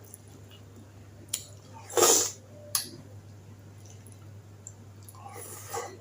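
Close-miked eating of khanom jeen rice noodles in green curry with chicken: wet chewing and mouth sounds, with a few sharp clicks. The loudest sound comes about two seconds in, and a steady low hum runs underneath.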